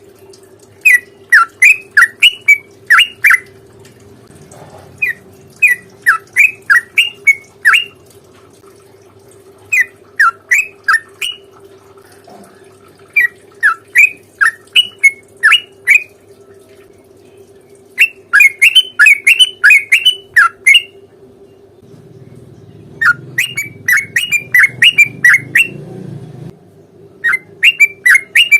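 Yellow-vented bulbul song: phrases of rapid, loud, repeated sharp notes, each phrase lasting two to three seconds with short pauses between, over a faint steady hum.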